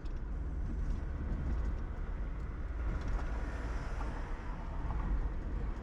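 Car in motion at about 35 mph, a steady low road and engine noise heard from inside the cabin.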